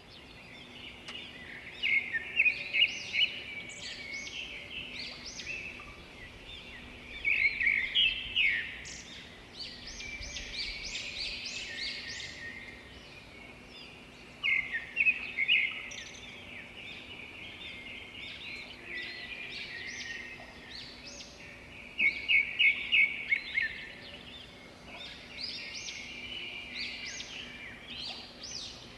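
Several songbirds chirping and trilling together: a steady high chatter broken by loud bursts of rapid chirps every few seconds.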